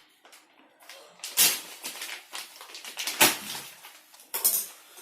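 Metal parts and tools clinking and clanking as they are handled, with three louder knocks (a little over a second in, about three seconds in, and near the end) and lighter clicks between.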